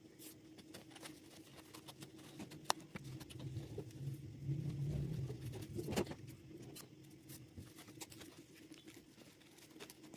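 Gouache paintbrush dabbing and stroking on paper: scattered light taps and soft scratchy clicks, with a low rumble swelling from about three and a half to six seconds in and a sharper tap at about six seconds.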